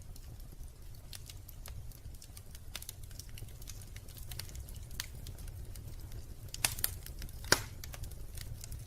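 Wood fire crackling in a fireplace: scattered sharp pops and snaps over a steady low rumble, with a cluster of louder pops a little after six seconds in and the loudest snap about seven and a half seconds in.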